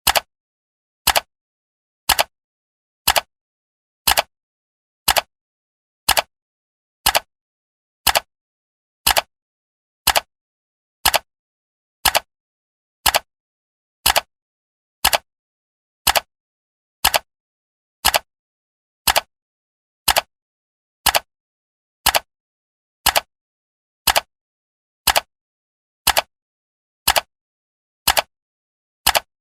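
Clock-tick sound effect of a countdown timer: one short, sharp tick every second, evenly spaced, with dead silence between ticks.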